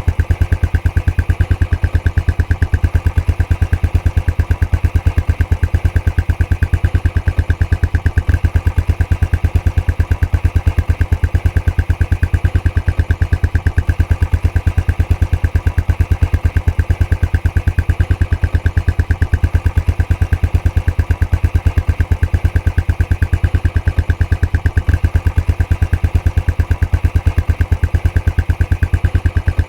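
Royal Enfield Classic 500's single-cylinder engine idling through its stock exhaust, with a steady, even beat that never changes.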